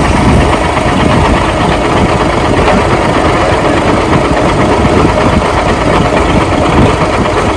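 Heavy truck's diesel engine running at idle, loud and steady.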